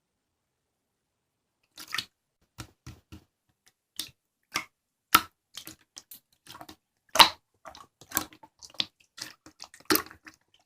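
Slime being pressed and squeezed by hand, making a series of short, wet clicks and pops of trapped air at uneven intervals, starting about two seconds in.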